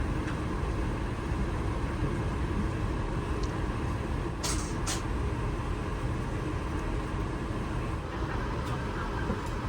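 Steady low rumble and air rush inside an Airbus A380 cabin on the ground before departure. Two short hisses come about four and a half and five seconds in.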